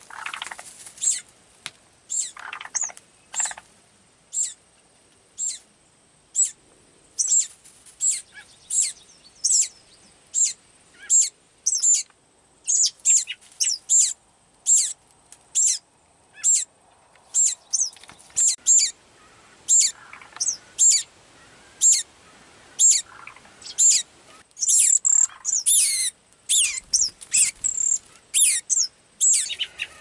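Young birds calling over and over in short, thin, high-pitched chirps, about one or two a second, with a few lower, rougher calls among them.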